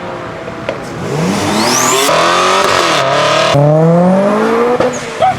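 A modified car's engine accelerating hard, its pitch climbing, with a high whistle rising over it about a second and a half in; there is a sudden break about three and a half seconds in, and then the pitch climbs again.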